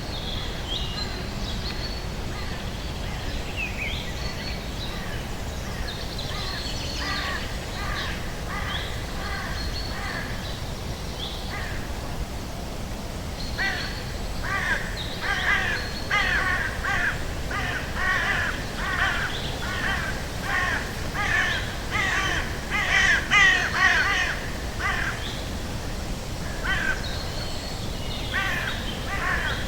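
Birds calling over a steady low forest background: scattered short high calls at first, then from about halfway in a long run of repeated calls at about two a second, loudest a little past the middle, before thinning out again near the end.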